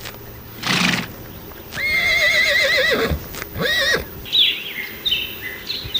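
Horse neighing: a short breathy snort, then a long whinny with a quavering pitch that falls away at its end, and a shorter second whinny. Short high falling chirps follow near the end.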